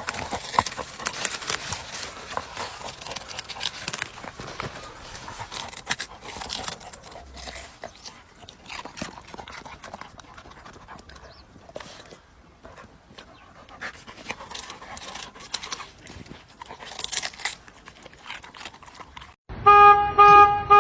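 A dog panting, breathy and irregular. Near the end a loud pulsing tone starts abruptly.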